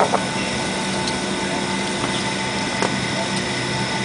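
Steady cabin noise inside an Airbus A320 taxiing after landing: the engines and air system give an even hum with several steady tones, broken by a few light clicks, one at the start and one a little under three seconds in.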